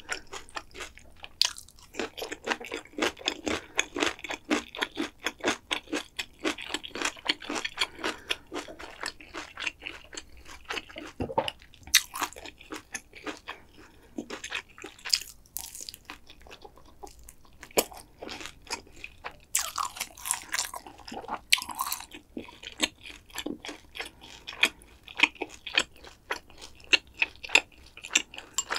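Close-miked eating sounds: a steady run of crisp crunches and chewing, from bites of crunchy carrot and fried food, with a few louder, sharper bites scattered through.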